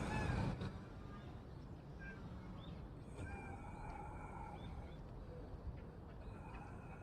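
Small birds chirping in scattered short calls over a steady low outdoor background hum, after a brief burst of noise at the very start.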